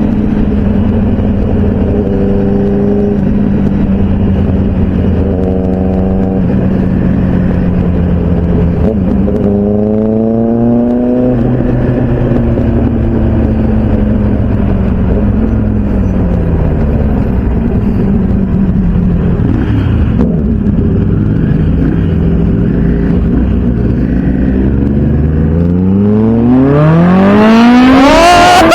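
Motorcycle engines at a steady highway cruise over wind noise. A brief rise in engine pitch comes about a third of the way in, and near the end an engine revs hard, its pitch climbing steeply as it accelerates.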